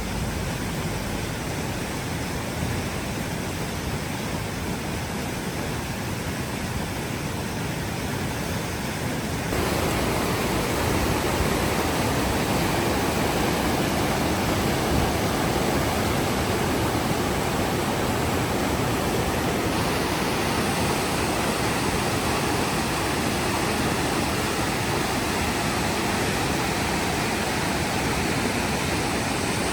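Steady rushing of river water, an even roar with no pitch. About ten seconds in it steps up a little louder.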